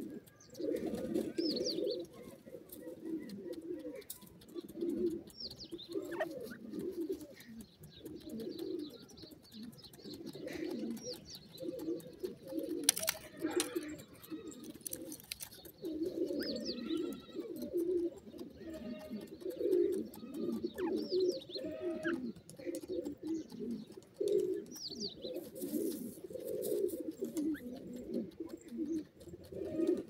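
Soft, low cooing bird calls repeating throughout, with scattered higher chirps. A few short scratchy rustles come from grey francolins scratching in dry sandy soil.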